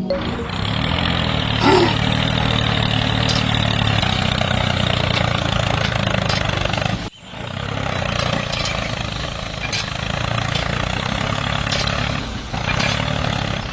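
Small electric motor and gearbox of a homemade toy tractor running steadily with a low hum and a whirring hiss. It cuts off abruptly about halfway through and starts again a moment later.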